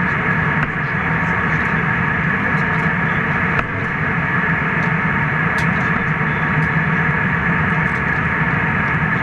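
Steady cabin noise of a jet airliner in flight: the constant rush of engines and airflow, with a faint click about three and a half seconds in.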